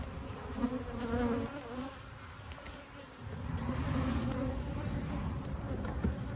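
Honey bees buzzing around a freshly opened hive, individual bees flying close past with a hum that wavers up and down in pitch and swells and fades, over a few small clicks.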